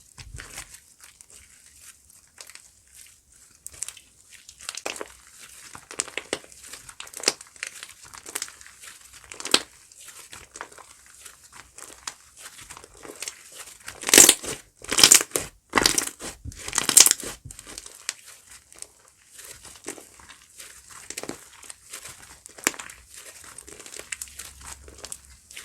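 Slime being squeezed and worked by hand, giving off a steady run of small crackles and crinkles. A louder cluster of crackles comes a little past halfway.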